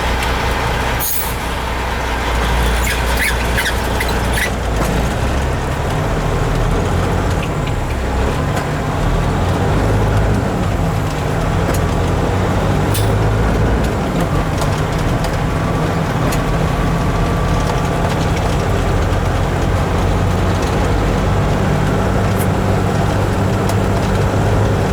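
Kenworth truck's diesel engine pulling away and working up through the gears, its pitch rising and dropping with each shift before settling to a steady run. A short sharp click about a second in.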